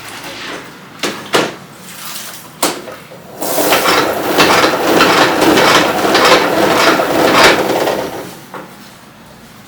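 Dishes and utensils clattering: a few separate knocks, then about four seconds of loud, continuous clatter that fades out near the end.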